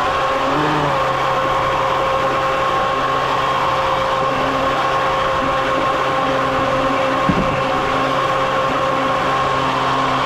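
A motor running at a steady speed with an even whine and hum, and a single short knock about seven seconds in.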